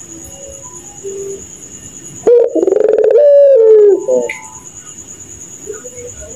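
A puter pelung dove (Barbary dove) gives one loud, drawn-out coo about two seconds in, lasting under two seconds. It starts as a quick pulsing stutter, holds a steady pitch, then slides down at the end: the 'laughing' call. A steady high whine runs underneath, with a few faint short coos.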